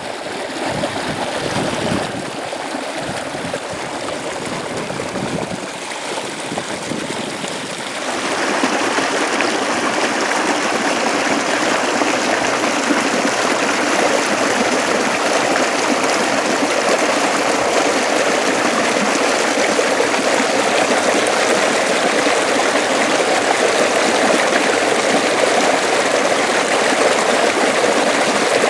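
Water running along an irrigation ditch (acequia), a steady rushing stream sound that grows louder and fuller about eight seconds in.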